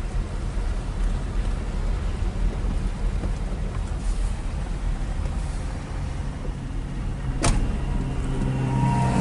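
Steady low rumble of a car on the move, with a single sharp click about seven and a half seconds in.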